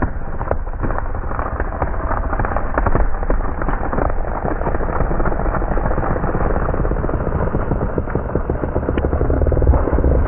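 Chainsaw running under load through a tree trunk during a felling cut, heard as a loud, harsh, crackling noise.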